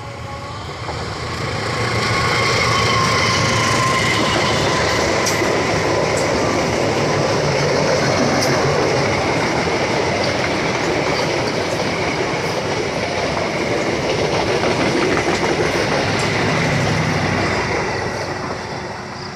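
Train passing close by, its wheels clattering over the rail joints, with some wheel squeal; it swells about a second and a half in, stays loud, and fades near the end.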